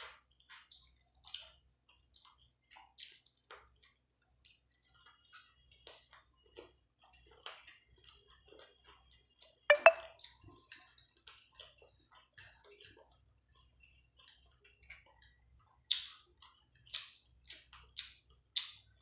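Close-miked mouth sounds of a person eating by hand: wet chewing, lip smacks and sticky clicks of the fingers at the mouth. There is a louder smack about ten seconds in and a quick run of sharp smacks near the end.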